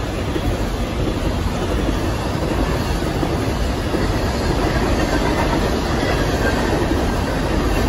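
Freight train of coal hopper cars rolling past close by: a steady noise of steel wheels on rail that grows slightly louder.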